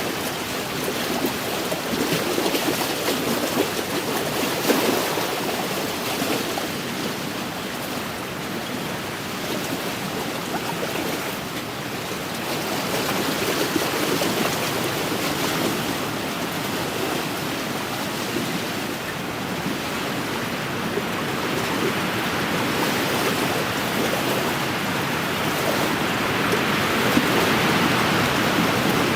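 Wind-driven waves washing against an inland lake's shore: a steady rushing with slow swells in loudness.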